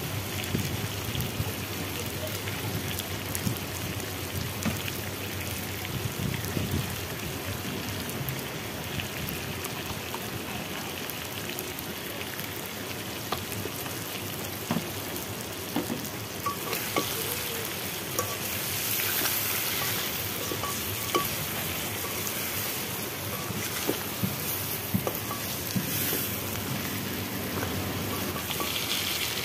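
Boiled eggs, onions and greens sizzling in oil in a metal kadhai, with a metal ladle stirring and clinking against the pan. The sizzle grows louder a little over halfway through.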